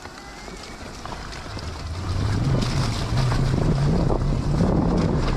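Dirt bike engine running, picking up about two seconds in, its pitch rising and falling with the throttle, with wind buffeting the microphone.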